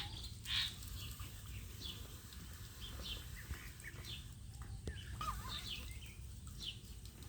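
Birds chirping: short high calls scattered throughout, with a few lower warbling calls about five seconds in, over a steady low rumble.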